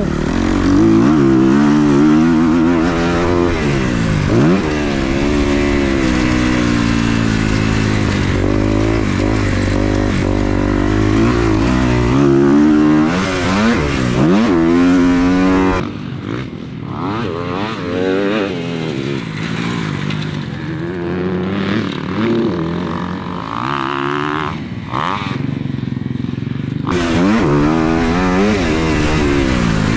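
Dirt bike engine revving hard on a motocross track, pitch climbing and dropping again and again as the rider works the throttle and shifts. For about ten seconds past the middle it turns quieter and duller, then comes back up to full revs near the end.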